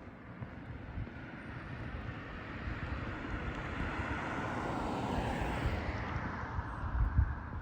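A passing vehicle: a broad rushing noise that swells to a peak about five seconds in and then fades, with low thumps of footsteps underneath.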